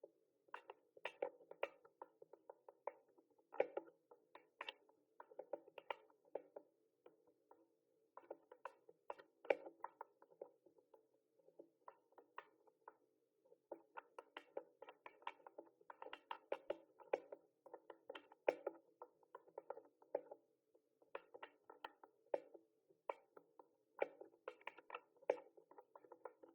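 Typing on a mechanical keyboard: quick runs of key clicks, broken by a couple of brief pauses.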